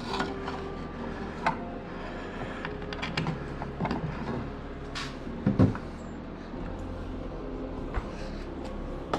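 Scattered light clicks and knocks from handling mounting hardware and tools, with one louder knock about five and a half seconds in, over a low steady hum.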